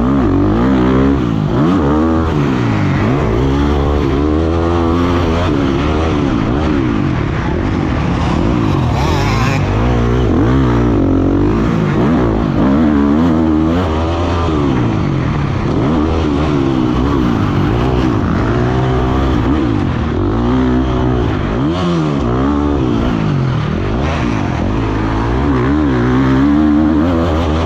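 Dirt bike engine on a motocross track, revving up and down over and over as the rider opens and closes the throttle, its pitch rising and falling every second or two.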